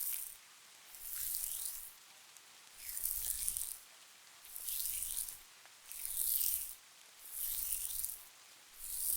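Hands massaging a face mask in slow, even strokes: a soft rubbing swish about every one and a half seconds, six times.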